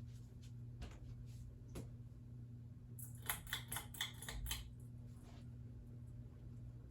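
SMC Emperor ceiling fan's motor humming steadily, with a quick flurry of sharp clicks and rattles about three seconds in as the pull-chain switch is worked to change it to high speed.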